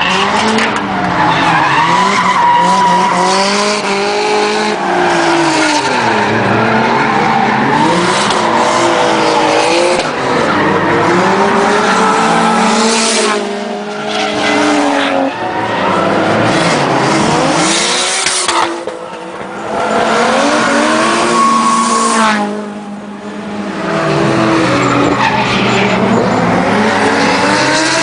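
Drift car engine revving up and down over and over while its tyres squeal and skid, loud throughout, easing off briefly three times.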